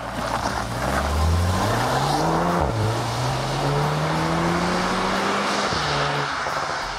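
Volkswagen Tiguan R's turbocharged 2.0-litre four-cylinder accelerating through the gears. The engine note climbs, drops at an upshift about two and a half seconds in, climbs again and drops at a second shift near the end, with steady tyre hiss from the wet road underneath.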